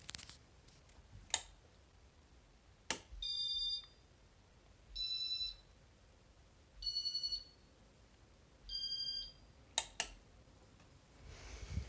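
Electronic beeper sounding four short beeps, each a chord of several high tones, about two seconds apart. Single sharp clicks come before them and a quick double click follows near the end.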